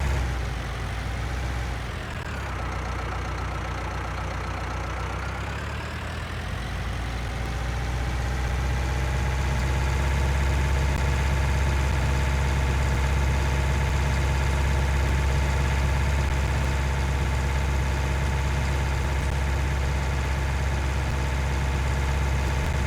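Tractor engine running continuously. Its pitch dips about a second in and climbs back over the next several seconds, then holds steady.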